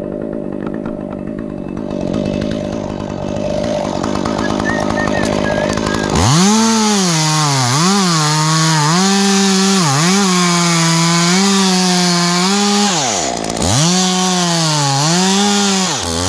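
Stihl two-stroke chainsaw running at low speed, then opened up about six seconds in and cutting pine, its pitch dipping each time the chain bites. It drops back briefly near thirteen seconds, revs up again to cut, and drops back at the very end.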